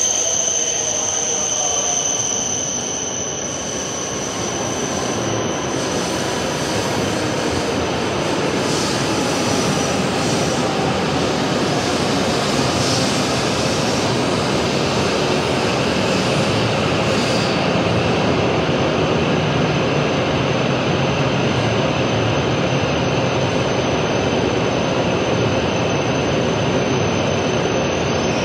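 E7/W7 series Shinkansen train running in to a stop alongside the platform, its wheels and body giving a steady rumble. Over the first few seconds, whining tones from the traction motors fall in pitch as it brakes, and a steady high tone sits over it all. The sound echoes in the enclosed underground station.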